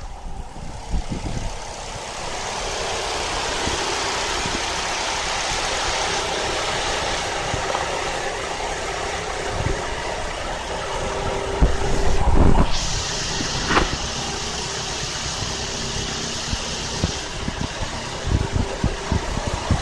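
Old car's engine idling with its cooling fan blowing a steady rush of air. About two thirds of the way through, a few low knocks come just before a brighter hiss joins for about four seconds.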